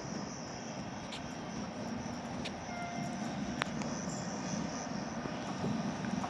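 Distant passenger train approaching, a steady rumble that grows slowly louder, with a few faint clicks and a brief faint tone about three seconds in.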